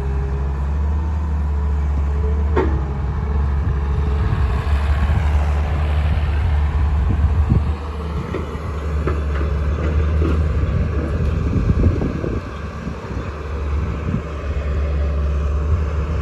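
Diesel engines of a Swaraj 744 FE tractor and a JCB backhoe loader running steadily with a low drone, with scattered knocks and rattles through the middle as sand is loaded into the tractor's trolley.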